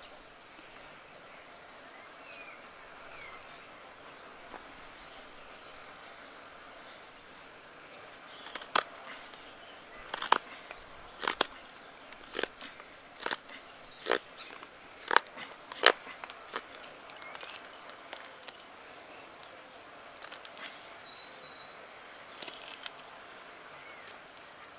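Carving knife cutting into seasoned alder wood: a run of sharp snaps, about one a second for some eight seconds, as chips are cut away from a spoon blank.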